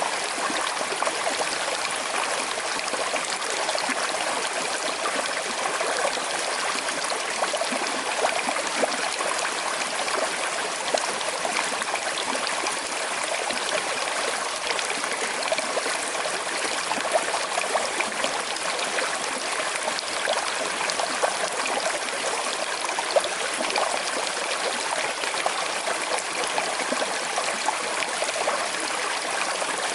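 A small, slow-flowing river running over stones: a steady rush of water with trickling and light splashing.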